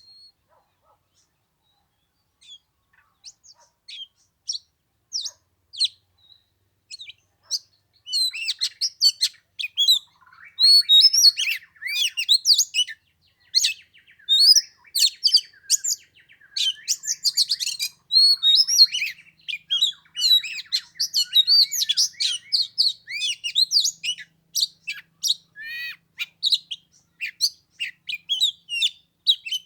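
Oriental magpie-robin singing. Sparse single chirps come first, then from about eight seconds in a dense, varied run of whistles and chirps.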